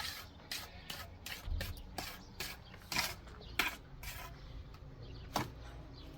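Trowel scraping and spreading cement plaster on a wall in quick, uneven strokes, about two a second, thinning out after about four seconds.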